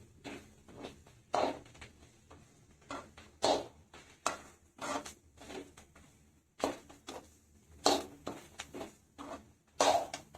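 A spoon scraping and knocking against a cooking pan in irregular strokes while boiled peanuts and thick masala are stirred together.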